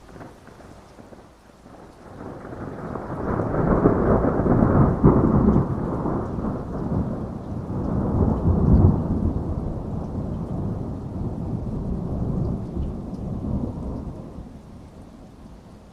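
A long roll of thunder in a heavy rainstorm: the rumble builds about two seconds in, is loudest through the middle, and slowly fades away near the end, over steady rain.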